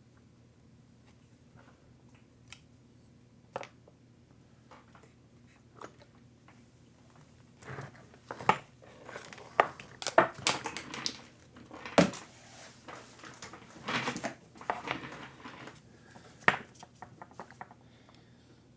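Hand tools and small parts being handled during an RC truck repair: irregular clicks, taps and light clatter. The sounds are sparse at first and busiest in the middle, with one sharp loud click about twelve seconds in.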